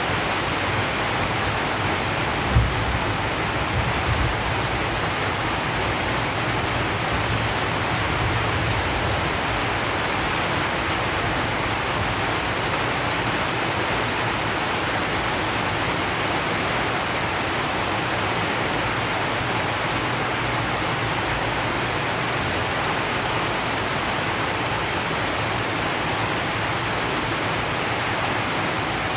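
Rain falling steadily on a corrugated zinc roof, a dense, even hiss with no let-up. A single brief thump about two and a half seconds in.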